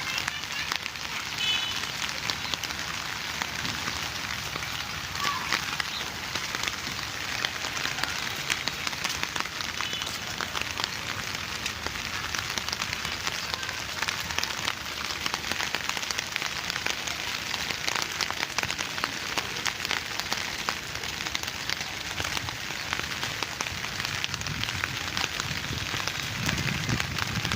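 Steady rain falling, a dense patter of drops landing on surfaces.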